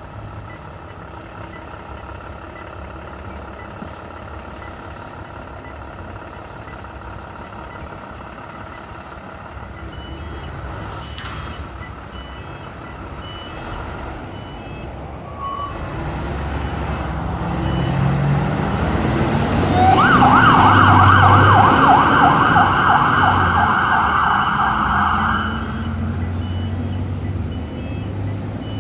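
A fire truck's diesel engine running and then pulling away louder, with its siren sounding a fast warble for about five seconds before cutting off. Faint, evenly spaced high beeps come and go in the background.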